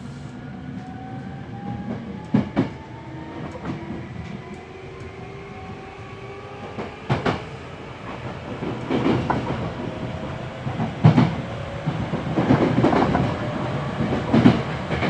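Hankyu 7300 series electric train running, heard from inside a car, with several tones rising slowly in pitch as it picks up speed and wheels clacking sharply over rail joints every few seconds.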